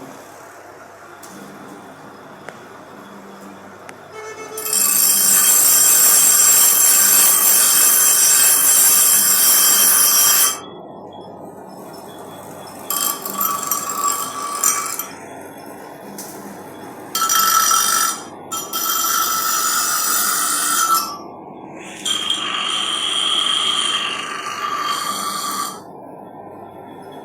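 Power tool working on metal in repeated bursts: one loud hissing burst of about six seconds, then four shorter bursts, each with a ringing metallic edge. A low hum continues between the bursts.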